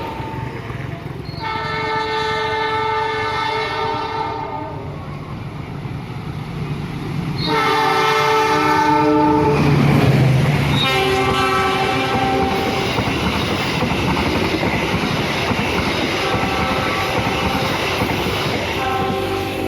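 Locomotive horn sounding a multi-tone chord in several blasts, the longest about three seconds, as a train passes close by with its wheels rumbling and clacking on the rails. The rumble swells about halfway through as the train draws level.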